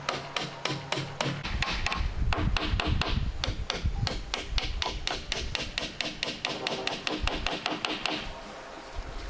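Rapid, even knocks, about five a second, like a blade or tool striking wood, stopping shortly before the end.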